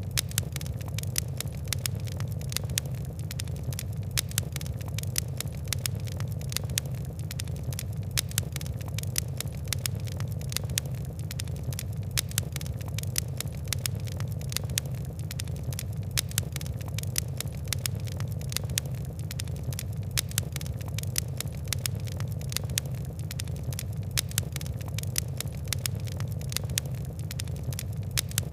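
Fire crackling steadily: dense, irregular sharp crackles and pops over a constant low rumble of the flames.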